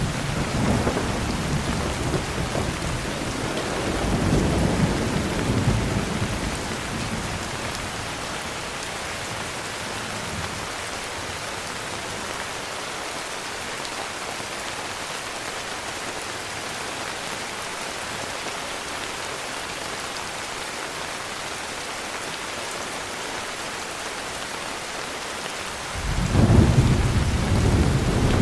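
Heavy rain falling steadily, with thunder rumbling low over the first several seconds and dying away, then a sudden loud rumble of thunder breaking in near the end.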